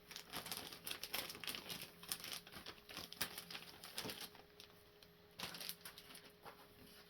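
Plastic packaging and paper crinkling and rustling as small accessories are handled and taken out of a box, with irregular crackles and light clicks that are busiest in the first four seconds or so.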